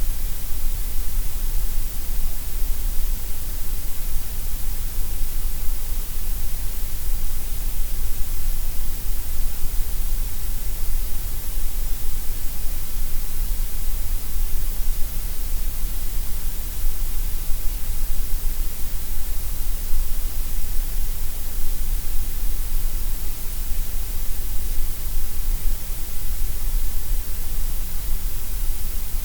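Steady generated gray noise: an even hiss, heaviest in the deep bass and the high treble and thinner in the middle.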